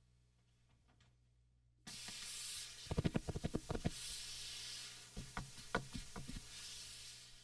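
Packaging of a boxed MIDI keyboard being handled: a rustling hiss starts abruptly about two seconds in, with a quick run of crackling clicks near the middle and a few more clicks after.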